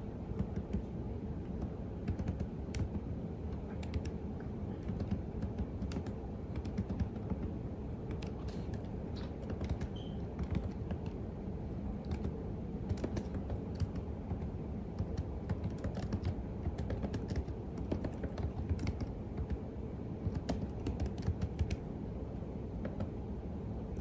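Typing on a computer keyboard: a continuous, irregular run of key clicks over a steady low background hum.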